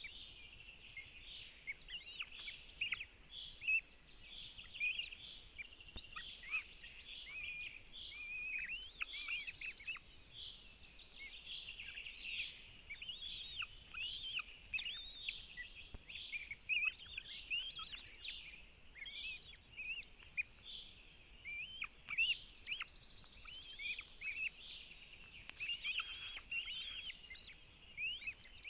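Outdoor birdsong: many short, overlapping chirps and whistles from several birds.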